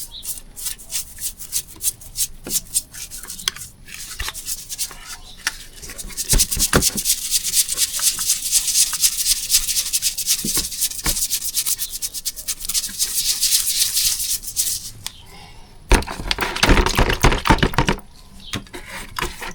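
Hand scraping and scrubbing of carbon deposits off engine pistons: a long run of rubbing strokes with scattered clicks and knocks of metal, and a louder rough scraping stretch near the end.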